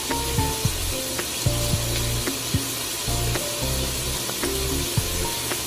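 Chicken pieces sizzling in hot oil in a stainless steel pot, an even hiss with small scattered pops, under background music.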